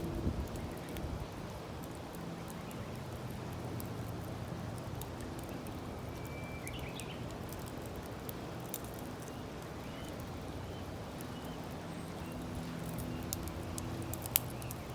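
Wood campfire crackling, with scattered small pops and one sharper pop near the end. Birds chirp a few times in the background.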